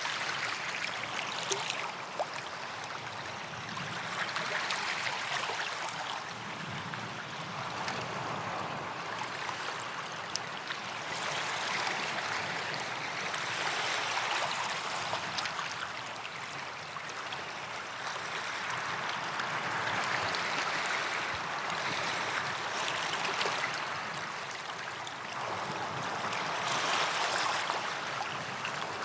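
Small waves breaking and washing up a sandy beach, the surf swelling and fading every few seconds, with light fizzing and crackling as the water drains back through the sand.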